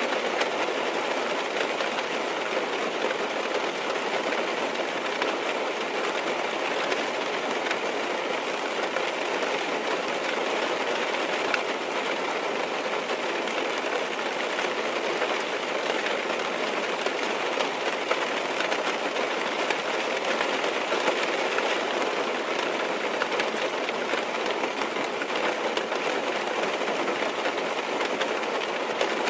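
Steady rain falling on a car's roof and windows, heard from inside the car: an even hiss made up of many small drop ticks.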